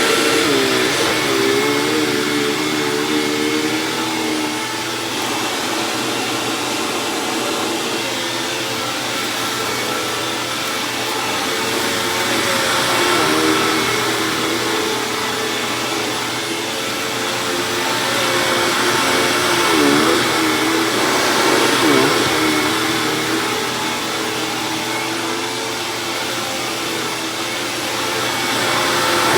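Hoover WindTunnel Plus upright vacuum running steadily while vacuuming shredded paper off carpet, its motor hum wavering up and down in pitch as the load changes.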